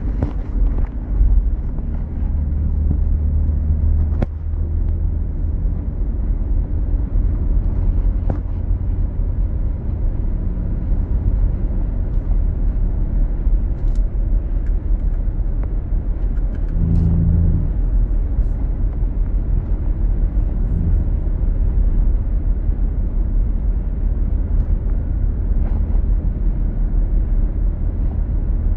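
Car driving along the road: a steady low rumble of road and engine noise, with a brief low hum swelling about two-thirds of the way in.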